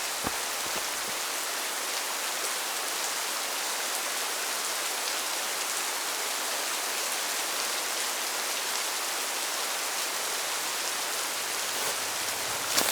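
Steady rain falling: an even, unbroken hiss, with a sharp knock just after the start and another near the end.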